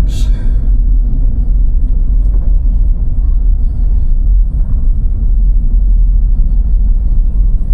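Car driving on snowy roads: a steady low rumble of tyre and engine noise.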